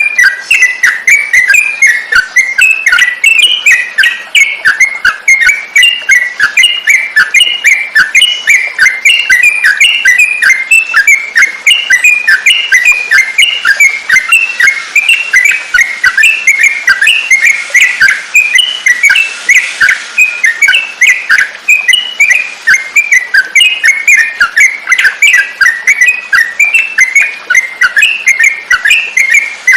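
Yellow-vented bulbul (trucukan) singing: a loud, unbroken run of short chirpy whistled notes, several a second.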